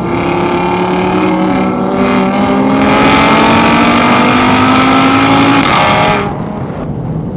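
A car engine accelerating hard, its pitch climbing steadily for about six seconds, then cutting back suddenly as the driver lifts off the throttle.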